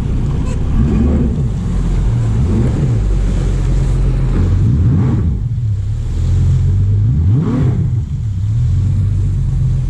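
Boat's outboard motor running and revving up and down about four times, as the boat is driven to get past floating logs.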